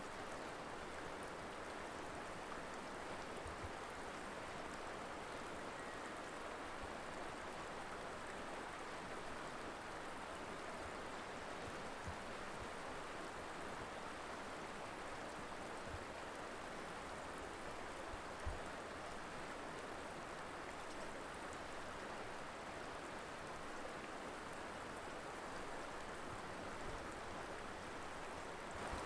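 Colorado River flowing: a steady, even rush of moving water.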